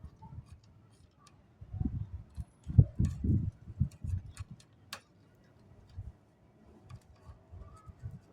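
Dry namkeen snack pieces being handled and sorted, giving scattered light clicks and taps, with a cluster of soft low thumps about two to three seconds in.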